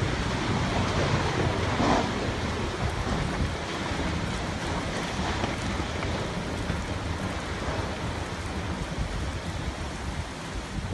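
Storm wind and heavy rain, a steady rushing noise with low rumbling buffets of wind on the microphone; it cuts off abruptly at the very end.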